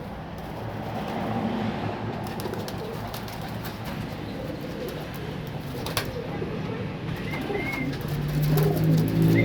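Domestic pigeons cooing, low and continuous, with scattered light clicks and one sharp click about six seconds in. A louder low sound comes in near the end.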